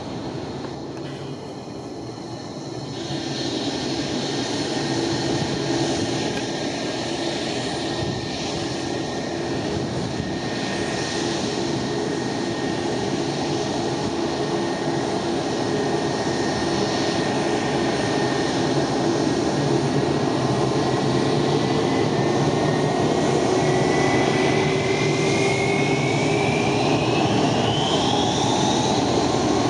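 Airbus A320's twin IAE V2500 turbofan engines running with a steady whine that climbs sharply in pitch over the last several seconds, growing gradually louder as thrust comes up for takeoff.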